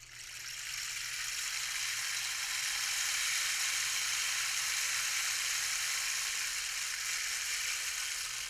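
Rain stick tipped and sounding: its filling trickles down through the tube in a steady rain-like hiss that swells over the first second or two and eases off slightly near the end.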